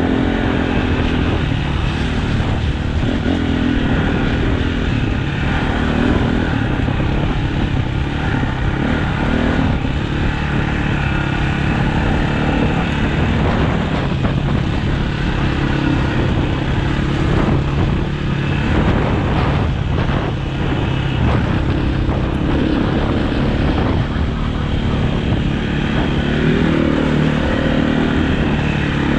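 Dirt bike engine running continuously as the bike is ridden, its pitch rising and falling with the throttle.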